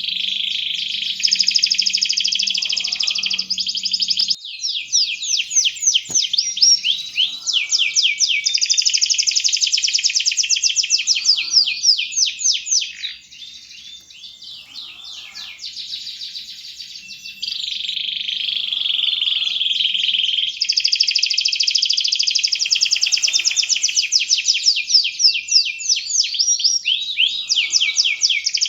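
Canary in full, nonstop song: long runs of fast, rapidly repeated trills and rolling phrases, easing off for a few seconds midway, then resuming at full strength.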